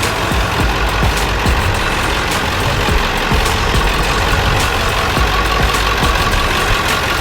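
Steady, loud low rumble of a vehicle engine running, with music playing underneath.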